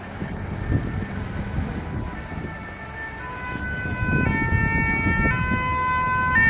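A two-tone emergency-vehicle siren of the French type, stepping between a high and a low note about once a second. It comes in faintly about two seconds in and grows louder as it approaches, over a low street rumble.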